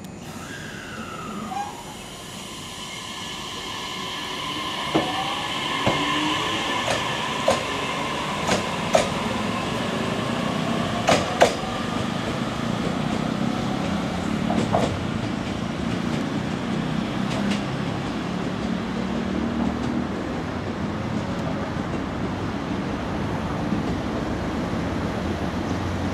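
JR Kyushu 819 series DENCHA battery electric train under way: an electric motor whine that falls in pitch at the start and then shifts slowly, a steady rolling rumble that grows louder a few seconds in, and around a dozen sharp wheel clacks over rail joints in the first half.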